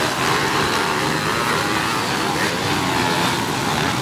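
Several pit bike engines running and revving together in a steady, loud mix.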